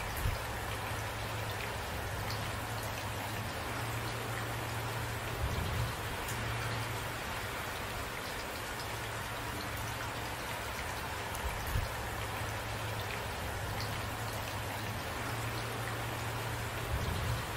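Steady rain falling, an even hiss of drops, with a few brief low thumps scattered through it.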